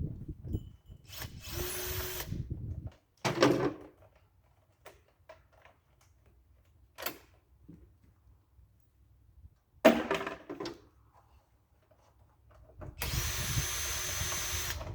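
A power drill runs in several short bursts and one longer run near the end, with clunks of tools and parts being handled between the runs. It is taking out bolts holding a lawn tractor's dash shroud.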